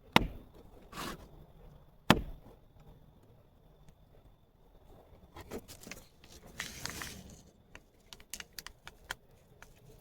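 Handling sounds: two sharp knocks about two seconds apart, then a stretch of rustling and a run of small clicks near the end, over a faint steady high whine.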